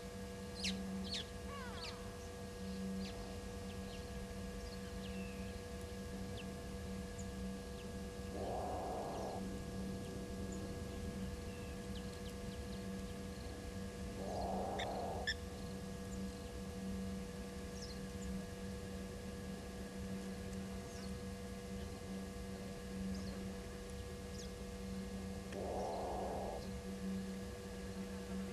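An unidentified animal call, a short sound of about a second, repeated three times several seconds apart.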